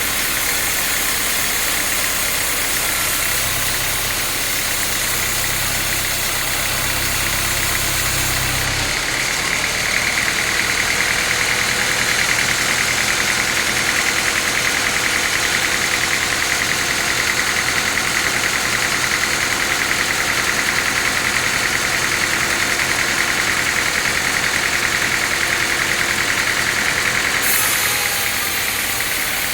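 Sawmill machinery running steadily, a continuous engine-like hum with a steady whine. About nine seconds in the sound shifts and gets a little louder, then eases back near the end.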